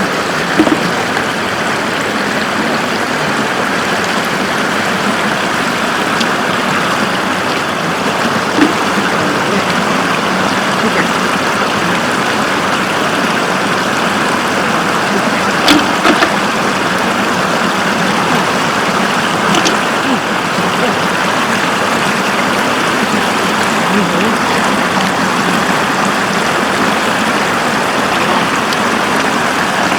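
Floodwater running over a road: a steady rushing of water, with a couple of brief knocks.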